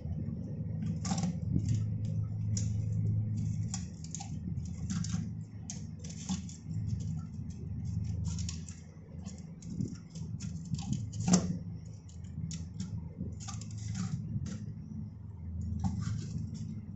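Irregular light clicks, taps and clatter of parts being handled while a Grohe concealed cistern is serviced, over a steady low hum. One sharper knock comes past the middle.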